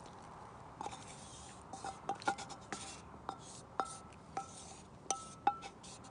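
An eating utensil clinking irregularly against a small bowl or dish, about a dozen sharp taps, each leaving a short ringing tone.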